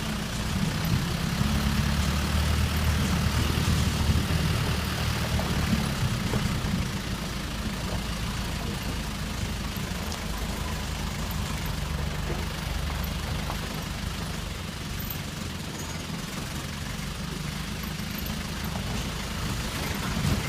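An engine running steadily with a low rumble, louder over the first six seconds or so.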